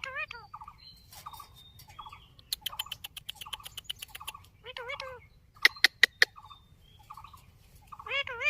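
Indian ringneck parrot chattering: wavering warbled calls, soft short notes repeated about twice a second, a quick run of clicks about two and a half seconds in, and four loud sharp clicks around six seconds in, the loudest sounds.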